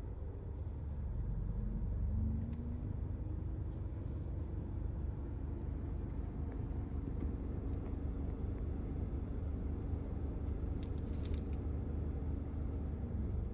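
A vehicle's engine runs with a low rumble and a steady hum that rises about two seconds in and stops near the end, with light rattles and a brief metallic jingle about eleven seconds in.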